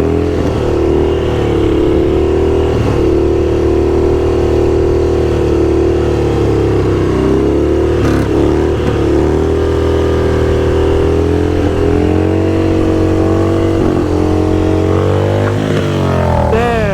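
Motorcycle engine running steadily under way, its pitch rising and falling gently with the throttle. About a second before the end it revs up quickly.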